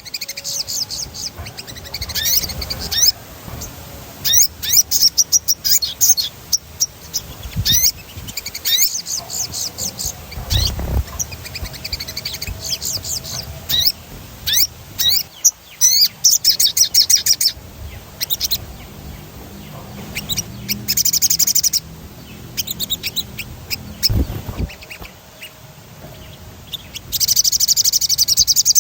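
A sogon songbird singing steadily, in fast high chirps and downward-sweeping notes, broken by dense rolling trills now and then; the longest trill comes near the end.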